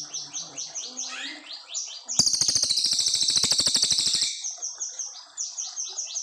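Brown cililin singing: a long run of short, high, downward-slurred notes at about five a second, broken about two seconds in by a louder, fast rattling trill that lasts about two seconds before the quick notes resume.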